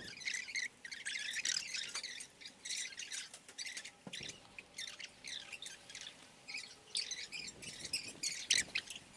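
Small birds chirping in quick, irregular bursts of high notes, with a single knock about four seconds in.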